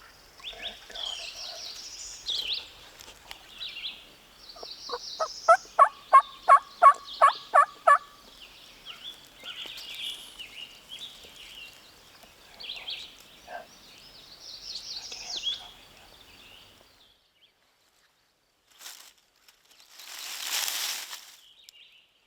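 Wild turkey calling close by: a loud run of about a dozen evenly spaced notes over about three seconds. Songbirds chirp and sing throughout, and near the end there is a rustling noise.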